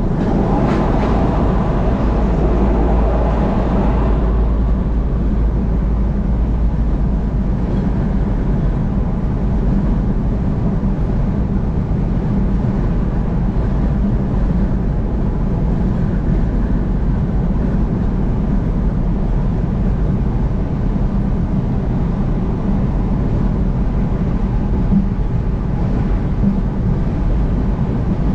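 Steady low road and engine rumble of a car driving at highway speed. A louder rushing swell comes in the first few seconds and fades by about four seconds in.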